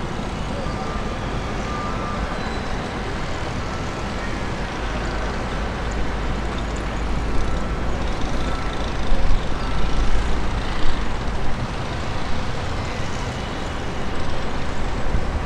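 Aircraft engine noise at the airfield: a steady rumble that swells in the middle with uneven peaks, then settles again.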